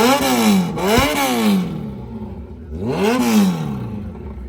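Motorcycle engine blipped three times through an aftermarket Austin Racing exhaust, the pitch climbing and falling on each rev: once at the start, again about a second in, and again about three seconds in.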